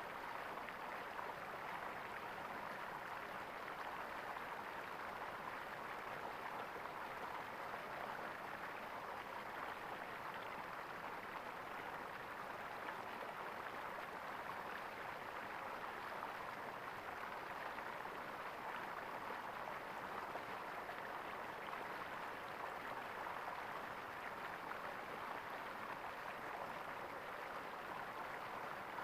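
Flowing water gurgling steadily.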